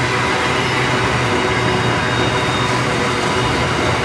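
Container wagons of a long freight train rolling past, steel wheels running steadily on the rails.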